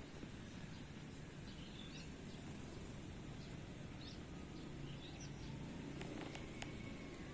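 Faint, short, high bird chirps, several scattered through, over a steady low background hum, with a few light clicks near the end.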